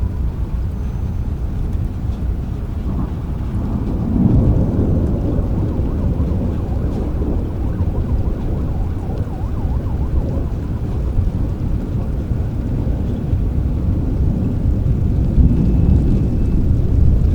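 Steady rain with low rolling thunder, the rumble swelling about four seconds in and again near the end.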